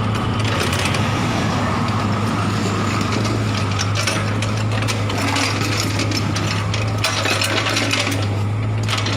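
Steady low machine hum with irregular clinking and rattling over it.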